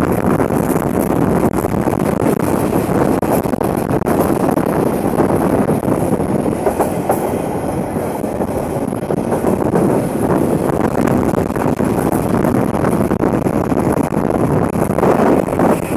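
Passenger train in motion: a steady, loud rumble of the carriages running along the track.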